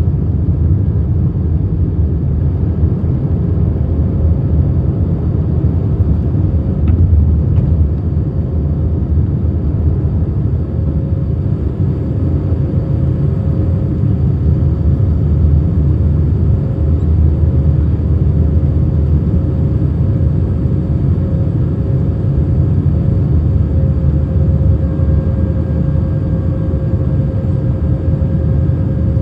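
Steady low rumble of engine and airflow noise inside an Airbus A319 cabin, with a faint steady hum above it.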